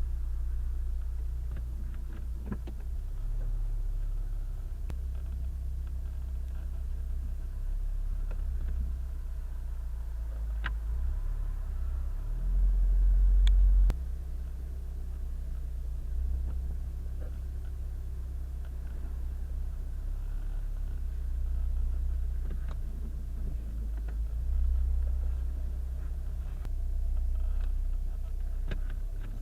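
Mk7 Volkswagen Golf R on the move: a steady low rumble with scattered short clicks and a louder swell a little before halfway, among which is the steering/suspension grinding noise the car is being shown for.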